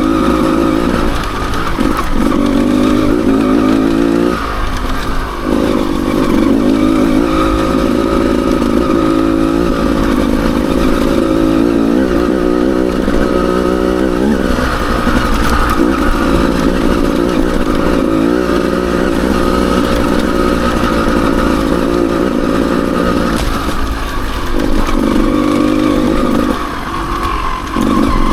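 Enduro dirt bike engine running under varying throttle, its note rising and falling, with the revs dropping off briefly every several seconds.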